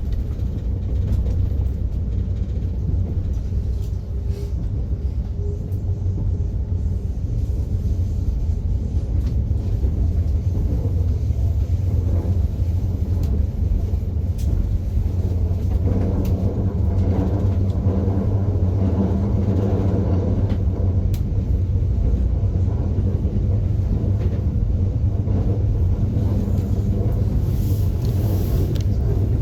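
Passenger train running, heard from inside the carriage: a steady low rumble with faint scattered ticks.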